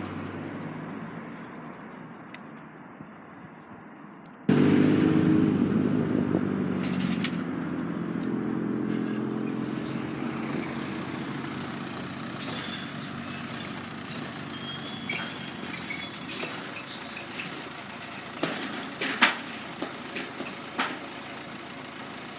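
Motor vehicle engines running, muffled at first; about four and a half seconds in a much louder engine hum cuts in suddenly and slowly fades, with a few sharp clicks near the end.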